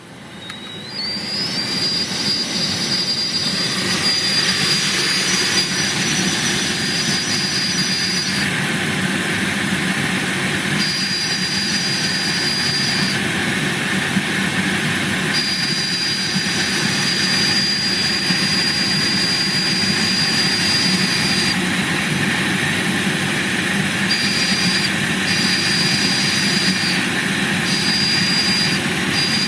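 Skoda Octavia A5 heater blower fan spinning up to a steady rush of air, with a thin high-pitched whistle. The whistle rises in pitch about a second in, then cuts out and comes back several times: the fan whistle the owner is trying to cure.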